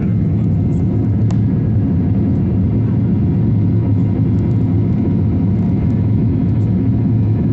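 Airplane engines running, a steady low rumble that holds even throughout.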